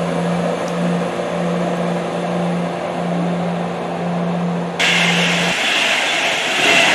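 A steady, even engine hum that stops about five and a half seconds in; just before that, a brighter hissing noise starts abruptly and carries on.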